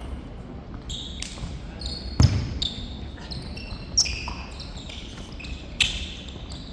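Korfball play: sneakers squeaking on the hall floor in short repeated squeals, with a heavy ball thud about two seconds in and sharp smacks of the ball near four and six seconds. Players' voices call out now and then.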